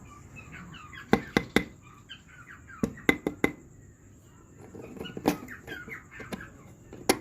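Cockatiel chattering in short chirps, in two stretches. Sharp clicks or taps come over it in small groups of two to four, and these are the loudest sounds.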